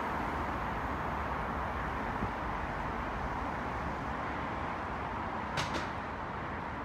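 CrossCountry Voyager diesel multiple unit running away from the station, its engine and wheel noise a steady rumble that slowly fades. Two short clicks near the end.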